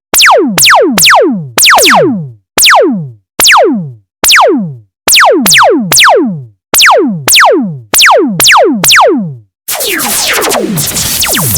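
Synthesized laser-gun sound effect: a run of quick 'pew' zaps, each a fast falling sweep in pitch, fired in irregular volleys. About ten seconds in, a denser, hissing electronic sweep effect takes over.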